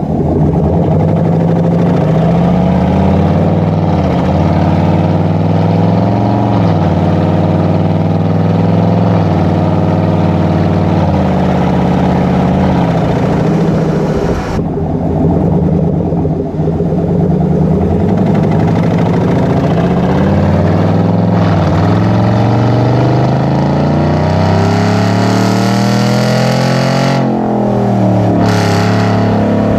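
Chevy Silverado's 5.3-litre V8 through a Borla Atak true dual exhaust, accelerating through the gears. The exhaust note climbs in pitch and drops back at each upshift, again and again.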